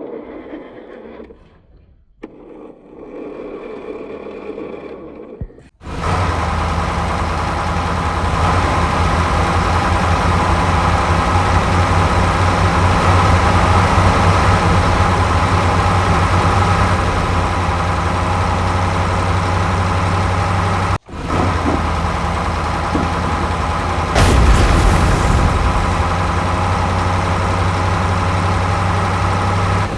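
A heavy vehicle engine, likely a dubbed-in sound effect, starts suddenly about six seconds in after some quieter clatter and runs loud and steady. It cuts out for a moment about 21 seconds in and resumes, with a brief louder burst of noise about 24 seconds in.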